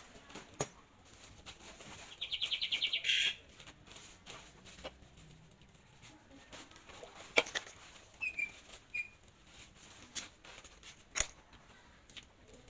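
A small bird chirping: a quick high trill of about a dozen notes a couple of seconds in, then two short chirps later. A few sharp clicks are heard in between.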